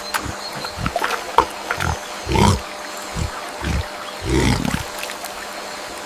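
Young piglet grunting: a run of short low grunts, two of them longer and louder, about two and a half and four and a half seconds in.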